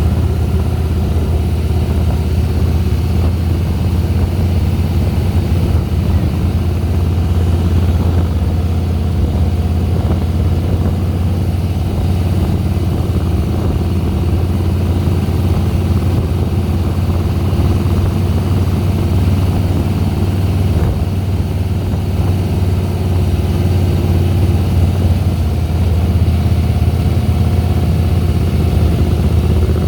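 2010 Harley-Davidson Softail Deluxe's air-cooled V-twin engine running steadily with a low rumble, a little louder over the last few seconds.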